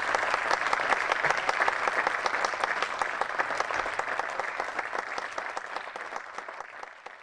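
Audience applauding: dense, many-handed clapping that gradually fades away toward the end.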